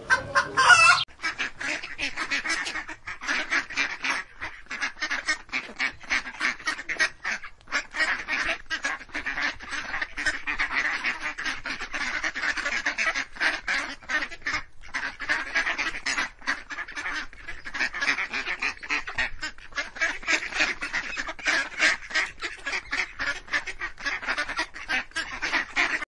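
A flock of domestic ducks quacking, many calls overlapping in quick, uneven succession. In the first second a chicken calls, the loudest moment.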